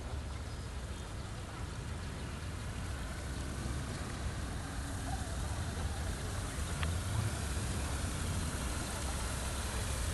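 Steady low rumble of vehicle noise that grows slowly louder, with one sharp click about seven seconds in.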